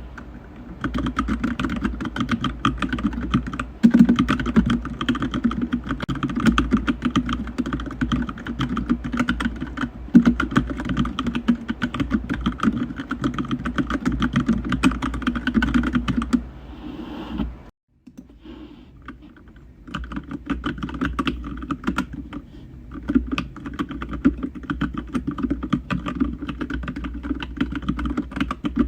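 Fast, continuous typing on a computer keyboard, the keys clicking rapidly. The typing stops for a few seconds a little past halfway, then resumes.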